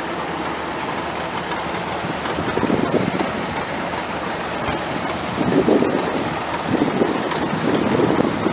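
Antique tractor engines running with a rapid, uneven pulsing that swells twice, mixed with wind buffeting the microphone.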